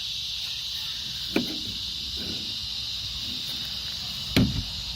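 Steady high-pitched insect drone, with two sharp knocks, one about a second in and one near the end.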